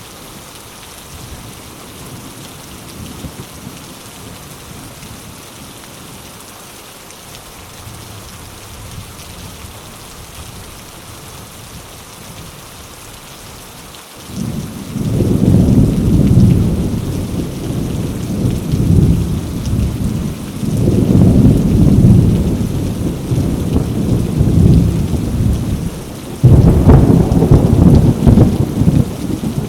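Heavy rain falling steadily on mango leaves. About halfway through, loud deep rumbling sets in suddenly and swells and fades in waves over the rain.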